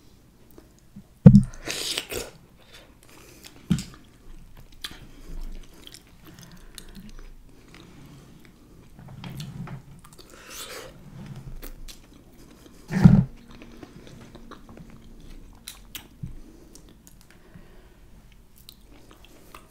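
A person chewing and biting into soft food, seafood-boil potato and mussels in sauce, close to the microphone. A few sharp knocks cut through, the loudest about a second in and another near 13 seconds.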